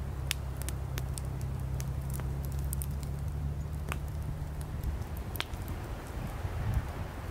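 Wood campfire burning, with firewood crackling in sharp, irregular pops over a low rumble.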